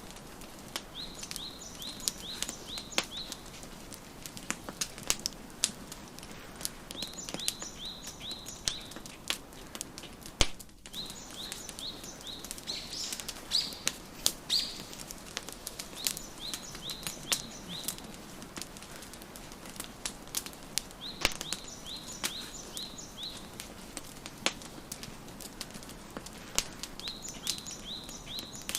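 Wood fire crackling, with frequent sharp pops over a soft steady hiss. Alongside it a songbird repeats a short phrase of five or six quick high chirps every few seconds.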